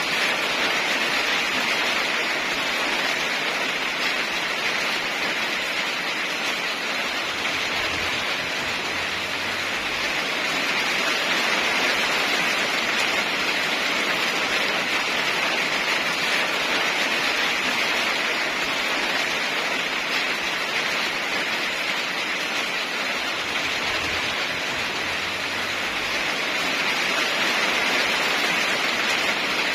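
Steady heavy rain, an even hiss with no distinct drops or thunder, swelling slightly in loudness now and then.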